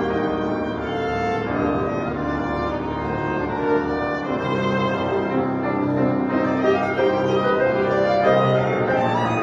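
Violin and piano playing together: a violin melody of long held notes over piano accompaniment.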